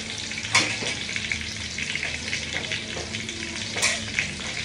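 Breaded pork cutlets (tonkatsu) frying in hot oil: a steady crackling sizzle, with two sharper cracks about half a second in and near the end.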